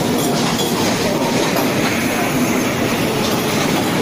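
Suburban electric local train running past, a steady, loud noise of coaches and wheels on the rails.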